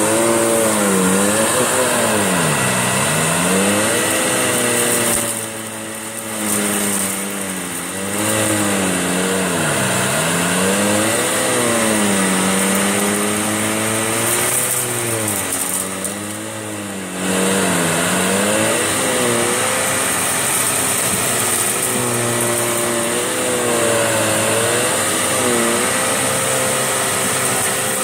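Electrolux Turbo 2 Super vacuum cleaner running continuously, its motor pitch sagging and recovering every few seconds. It is being pushed forward in short bites over a mat thick with fur, dirt and cat litter. It goes briefly quieter twice, about a third of the way in and again after the middle.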